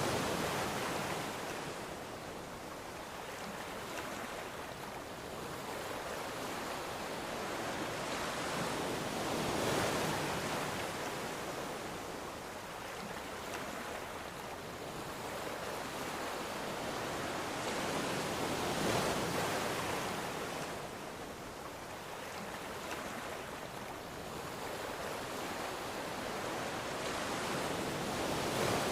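Ocean waves breaking and washing up, a steady rush of surf that swells to a peak about every nine seconds, three times, and ebbs between.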